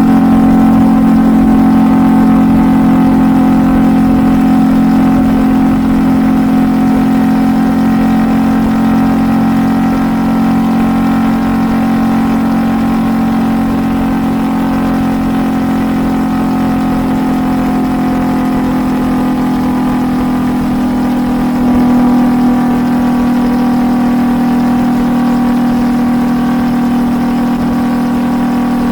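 Kawasaki Vulcan S 650's parallel-twin engine through a Truedual Valero twin-pipe exhaust, running steadily at highway cruising speed. Its pitch eases down slightly over time, with a brief swell a little past two-thirds of the way through.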